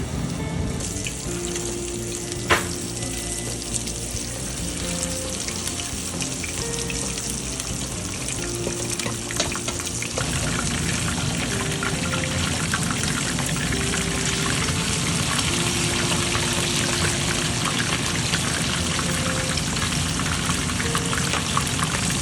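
Fish frying in hot oil: a steady sizzle with fine crackling that gets louder about ten seconds in, under background music. A single sharp tap sounds about two and a half seconds in.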